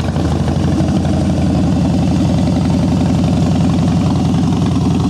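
Harley-Davidson Softail Slim's V-twin idling through aftermarket Vance & Hines exhausts, with a steady, loping beat.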